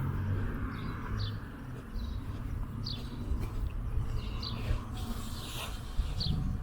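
A small bird chirping, short clipped calls about once a second, over a steady low outdoor rumble.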